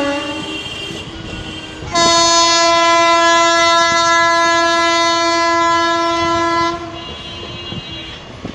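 Train horn: a brief note at the start, then one long steady blast of about five seconds beginning two seconds in, over the rumble of a train.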